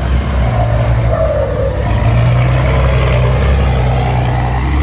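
Six-wheel dump truck's diesel engine running hard under load, its pitch stepping up a little about two seconds in.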